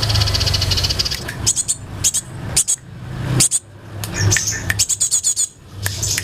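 Small songbird singing a rapid dry trill for about a second, then a run of sharp high chips and short chattering phrases with brief gaps between them.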